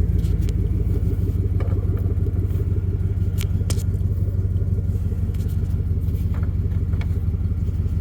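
2004 Chevrolet Silverado 2500 pickup's engine idling steadily, heard from inside the cab, with a couple of light clicks about halfway through.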